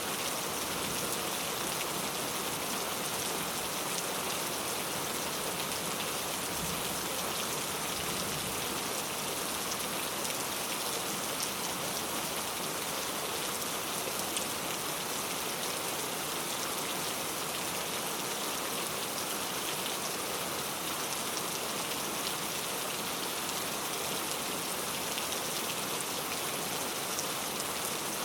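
Steady rain falling: a dense, even hiss of many drops with a fine scattered patter, holding the same strength without letting up.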